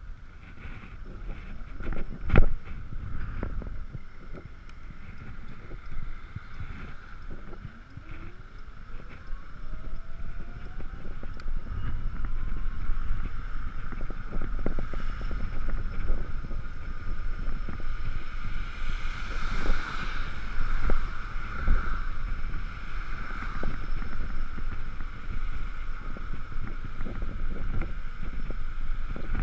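Ekoway ML5000 electric vehicle under way: its electric drive whines, rising in pitch as it speeds up from about eight seconds in, over steady wind and road noise. A sharp knock about two seconds in.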